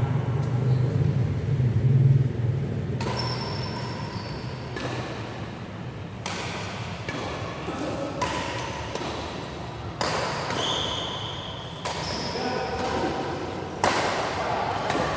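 Badminton rally in a sports hall: about seven sharp hits a second or two apart, some with brief high squeaks, each echoing briefly in the hall.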